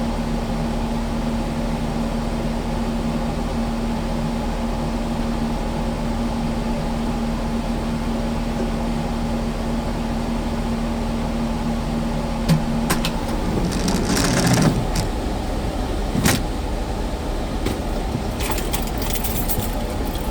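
Kubota skid steer's diesel engine running, with a steady hum. About two-thirds of the way through, the steady tone stops and a run of clanks and rattles follows.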